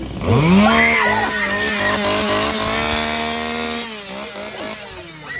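Chainsaw engine revved hard: the pitch climbs quickly, holds at full throttle for about three seconds, then falls away as it is let off.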